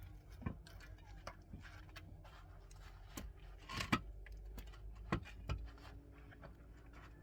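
Irregular light knocks and clicks of objects being handled, with a few sharper knocks about four seconds and five seconds in.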